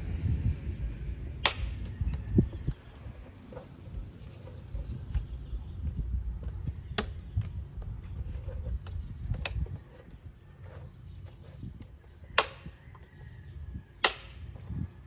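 Five sharp snaps and clicks of a Donaldson canister air cleaner's cover and housing being fitted and latched by hand, over a low rumble that drops away about ten seconds in.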